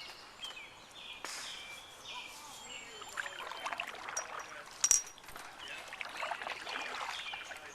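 Swallows twittering in many short, quick chirps, with one sharp click about five seconds in.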